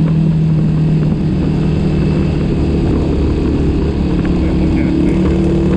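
A vehicle engine running steadily under way, its note dropping slightly about a second in and rising again near the end, over a heavy low rumble.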